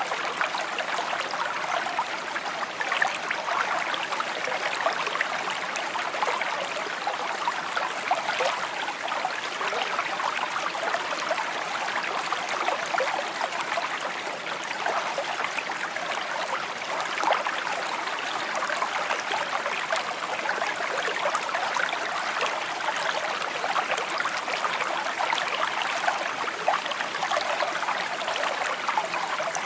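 Small stream babbling and trickling over stones, a steady splashing and gurgling flow.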